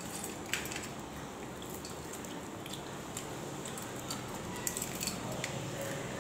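A child biting into and chewing a crispy fried soya-chunk bonda: faint crunches and small clicks, a sharper one about half a second in and a few more near the end, over steady room noise.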